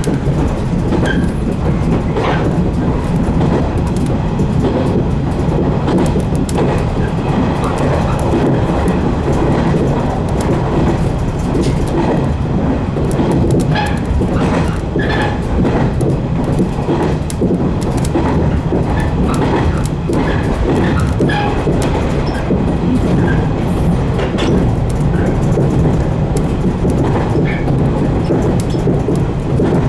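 115 series electric train running steadily along the line: a continuous loud rumble of motors and wheels on rail, with scattered clicks of the wheels over rail joints.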